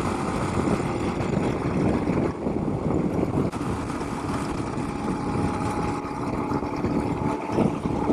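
Suzuki DR-Z400S single-cylinder four-stroke engine running steadily at road speed, mixed with wind noise over the microphone.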